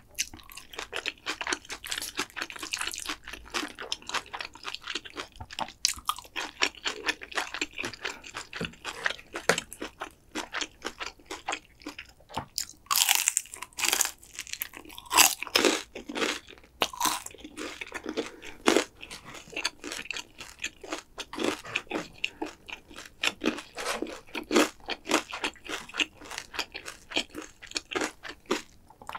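A person chewing crunchy food close to the microphone: a dense, irregular run of crisp crunches and bites, loudest about halfway through.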